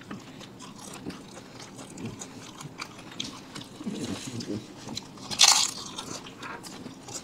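Close-up eating sounds: people biting and chewing crisp food, with many small crunching clicks and one louder crunch about five and a half seconds in.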